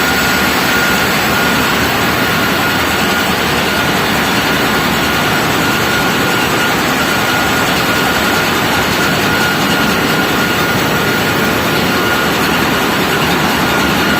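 Large engine running steadily, a loud, even machinery noise with a constant high whine over it.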